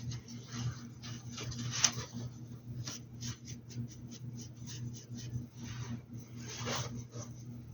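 Paintbrush bristles brushing and dabbing paint onto a fabric hat: a string of short, irregular scratchy strokes with one sharper tap about two seconds in, over a steady low electrical hum.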